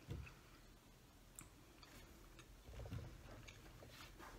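Faint close-up chewing of güllaç, a soft milk-soaked pastry dessert topped with nuts, with a few light clicks.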